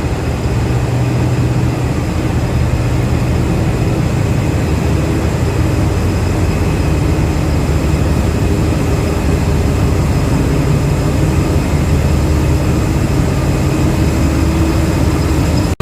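Diesel engine of the standing Jungle Train idling steadily, a loud, even low drone with a few constant higher tones over it.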